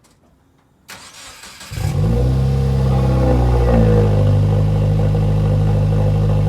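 Subaru WRX's turbocharged flat-four being cranked by the starter about a second in and catching just under two seconds in, with a rev flare that falls away and a second small blip, then settling into a loud, steady idle through a freshly fitted Tomei titanium single-exit exhaust.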